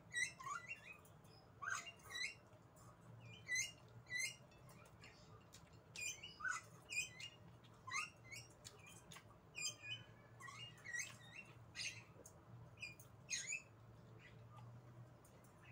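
Close-miked chewing and lip smacking while eating rice with side dishes by hand, an irregular run of short wet clicks and smacks, over a faint steady low hum.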